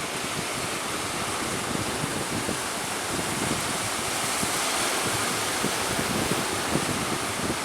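Strong wind buffeting the microphone over the steady rush of open-sea waves.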